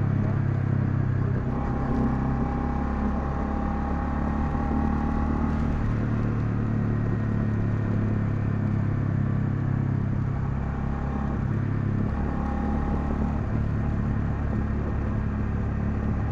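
Honda CL250's single-cylinder engine running while the motorcycle is ridden. The engine note is steady but shifts to a new pitch in steps a few times.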